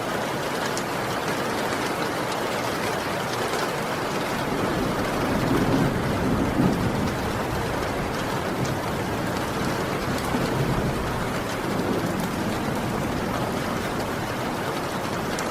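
Heavy rain pouring steadily, with a low rumble of thunder swelling about five seconds in and a fainter rumble a few seconds later.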